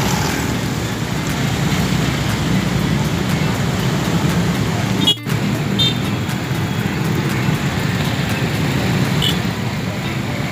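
Steady road traffic noise from passing vehicles. The sound cuts out briefly about five seconds in.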